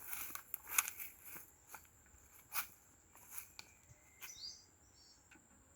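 Faint scattered clicks and crunches of handling and movement, with a few short bird chirps about four to five seconds in over a thin, steady high tone.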